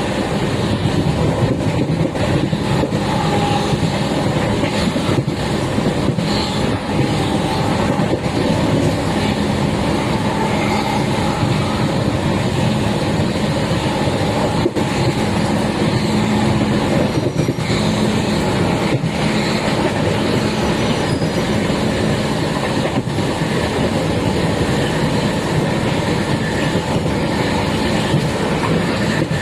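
Train running fast on the rails: a loud, steady rumble of wheels on track with occasional sharp clicks.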